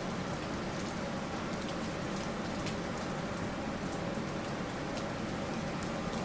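Steady rain, a constant hiss with many individual drops landing as sharp little ticks.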